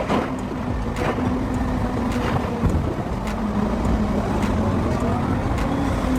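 Dump truck engine running steadily, with scattered knocks and clanks over the drone.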